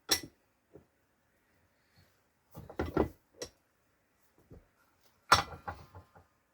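Sheet-steel repair panel being handled and set into a bench vise: a few separate metal clunks and rattles, the loudest about five seconds in with a short metallic ring.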